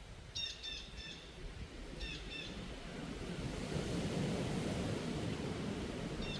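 Wind blowing, swelling into a stronger gust in the middle. Over it, a bird gives short clipped chirps: three near the start, two about two seconds in, and two more near the end.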